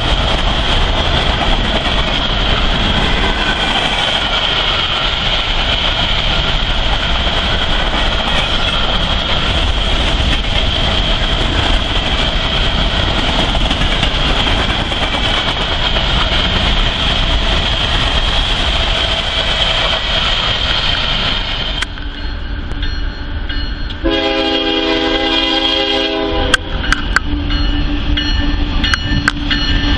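A freight train of covered hopper cars rolls past close by, a steady rumble of wheels on rail with a constant high ringing tone over it. After a cut about 22 s in, an approaching diesel locomotive sounds its multi-note air horn, one blast from about 24 s, a short break with a few sharp clicks, then another blast near the end.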